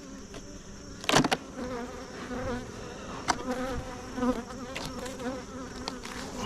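Honeybees buzzing around an opened hive, a steady wavering hum. There is a sharp knock about a second in and a few lighter clicks later on.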